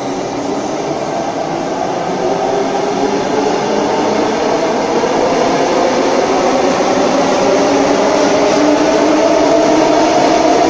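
Sydney Trains double-deck electric train pulling out of the platform and accelerating. Its traction motors give a whine that rises in pitch over the steady rumble of wheels on rail, and it grows louder throughout.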